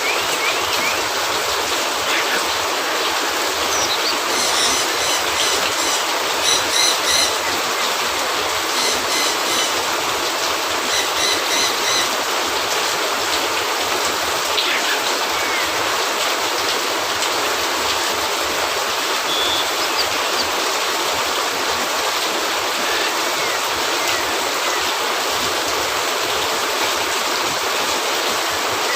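Steady heavy rain falling, a dense even hiss, with clusters of small crackling pops from a wood fire in the fireplace between about four and twelve seconds in.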